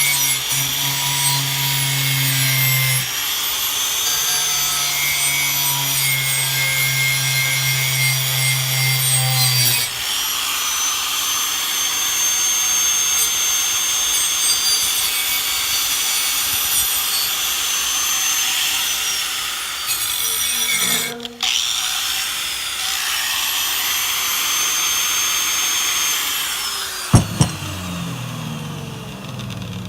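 Power tool running against the old sickle's rusty steel, abrading it, with the motor's pitch dropping now and then under load.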